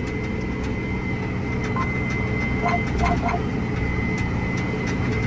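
Tractor engine running at steady field RPM under a steady drawbar load, heard from inside the cab while pulling a vertical tillage tool: a constant low drone with a steady high whine over it. A few faint short chirps sound about three seconds in.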